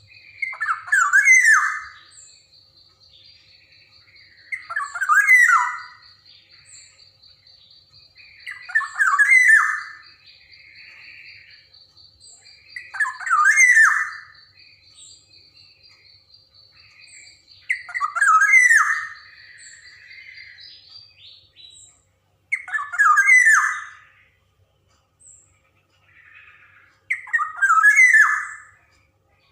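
Black-naped oriole (kepodang) giving harsh, descending calls, repeated about every four seconds, seven in all. A faint steady high tone sounds behind the calls and stops about two-thirds of the way through.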